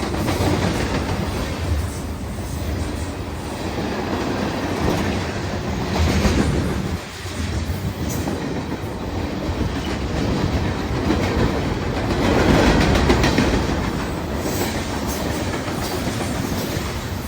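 CSX freight train cars rolling past, their wheels clacking over rail joints in a steady rumble, with a brief lull about seven seconds in.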